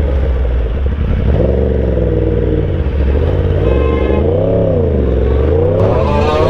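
Yamaha R1 inline-four sportbike engine revving up and down several times, its pitch rising and falling in swells, over steady rushing noise.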